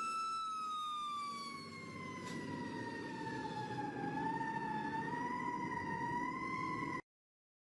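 Fire truck siren wailing in one slow sweep: its pitch falls over about four seconds, then rises again, over a low rumble. It cuts off suddenly near the end.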